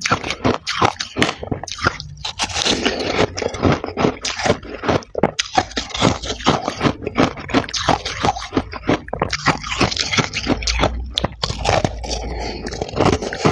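Freezer frost being bitten and chewed: a dense run of rapid crunches throughout, with scraping.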